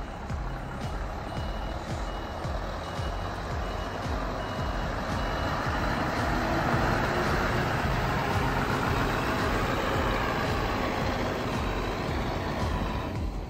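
Scania suction and flushing truck's diesel engine running, with a reversing alarm giving regular short high beeps that stop about five seconds in. A louder steady rushing noise then builds over the engine and eases off near the end.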